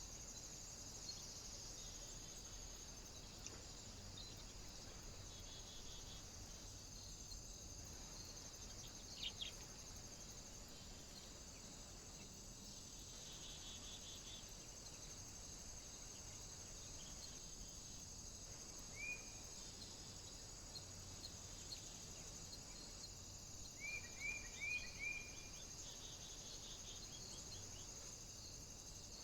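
Faint outdoor ambience with a steady high hiss. A small bird gives a few short rising chirps, once about two-thirds of the way through and in a quick run of about four near the end.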